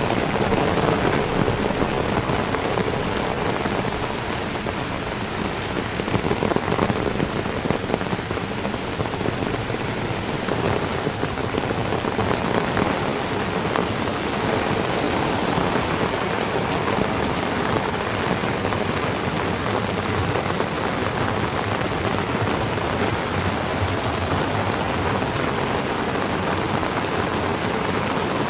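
Heavy rain falling steadily, a dense, even patter with no pauses.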